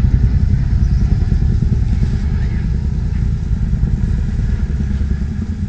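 Jeep engine running at low speed with a steady low rumble as it crawls over rocks, easing slightly toward the end.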